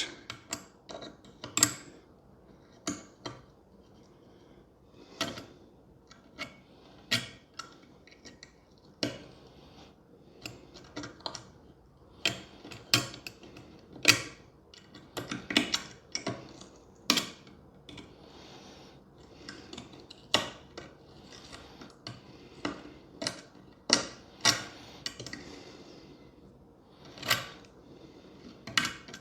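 Hand tools working on the old wooden pump board of a band-organ bellows: irregular sharp clicks and taps, with a few short scrapes.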